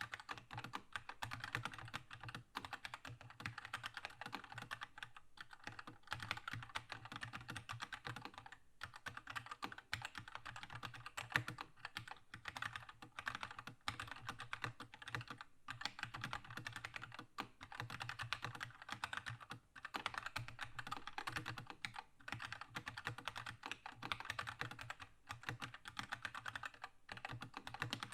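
Continuous fast typing on a Keychron K2 mechanical keyboard with linear red switches: a dense run of key clicks and bottoming-out taps, with short pauses every few seconds.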